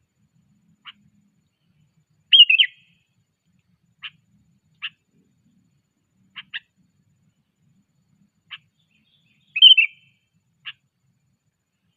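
Sooty-headed bulbul calling: single short sharp chips at irregular intervals, with two louder brief warbled phrases, one a couple of seconds in and one near the end.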